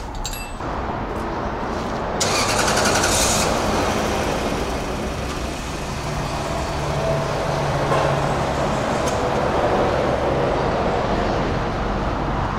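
Lexus LS 430's V8 engine being started, with a short burst of cranking about two seconds in, then running steadily.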